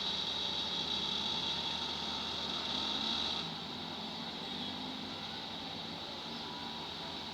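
Heavy diesel machinery running steadily, with a high hiss that stops about halfway through.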